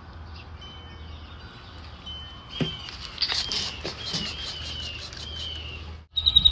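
Small bird chirping: a few faint short whistles, then in the second half a run of about six short, falling whistled notes with a few light ticks among them.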